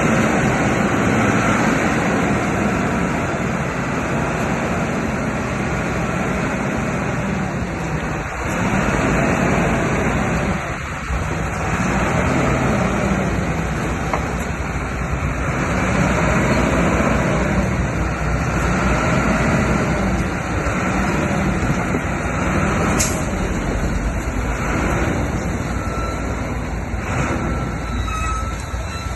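Heavy diesel engine of earthmoving machinery running under load. Its sound swells and falls about every two seconds. A faint beeping comes in near the end.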